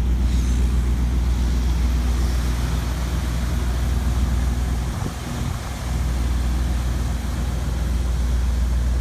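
Vehicle engine running steadily at a constant speed, a low even hum, with a brief dip in level about five seconds in.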